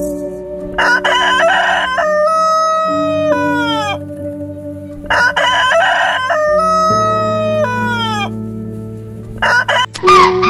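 Domestic rooster crowing twice, each crow a ragged start followed by a long held note that falls away at the end, over soft background music.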